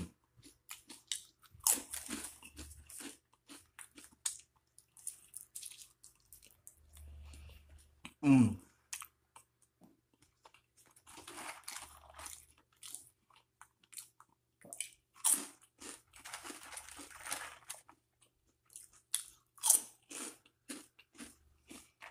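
A person eating close to the microphone: loud crunching bites and chewing in bursts, with one brief loud sound that slides in pitch about eight seconds in.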